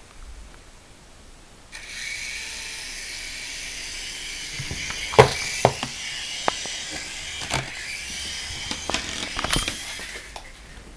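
Small electric motor of a toy helicopter whirring steadily from about two seconds in, with several sharp knocks and clicks over it from about five seconds on.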